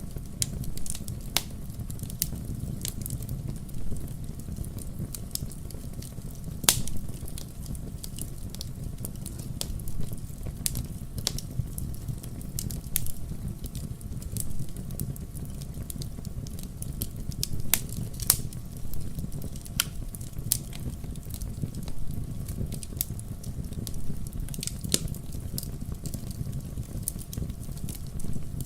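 Wood fire in a fireplace crackling, with irregular sharp pops and snaps over a steady low hiss of the flames. The loudest pop comes about seven seconds in.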